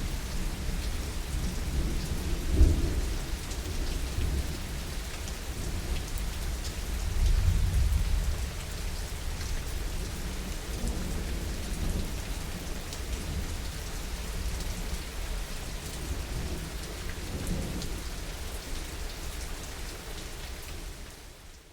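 Heavy rain falling steadily with rolling thunder: a sharp clap about two and a half seconds in, a longer low rumble a few seconds later, and fainter rumbles after that. The sound fades out near the end.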